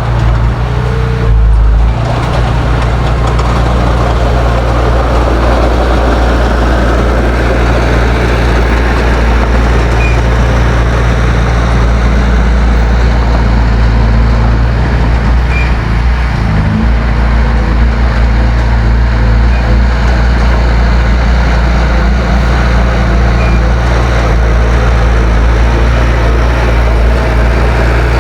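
Heavy diesel engine of a bulldozer running steadily under load, with a noisy mechanical clatter over the low engine drone; the engine note shifts briefly about a second in and again a little past halfway.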